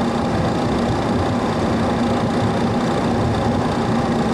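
Steady drone on the flight deck of a Boeing 737 Classic parked at the gate, with the APU running and supplying power after the engines are shut down. It is a constant hum with a few steady tones and no change in pitch or level.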